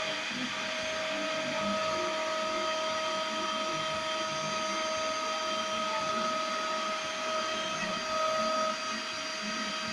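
Small CNC milling machine running while milling a circuit board: a steady motor whine over a hiss. A pair of steady tones comes up about half a second in and drops away near the end.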